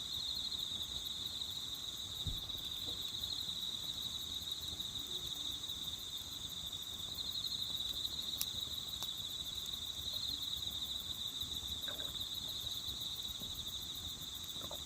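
Crickets trilling in a steady high chorus, with a couple of faint snaps from a campfire about halfway through.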